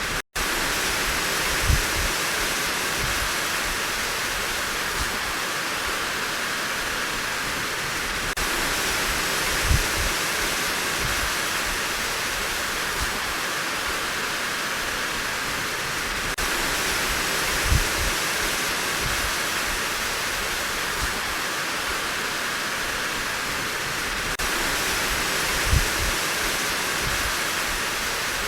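Steady heavy rain falling in a continuous even hiss, with a short low thump about every eight seconds, four times in all. The sound cuts out for a split second just after the start.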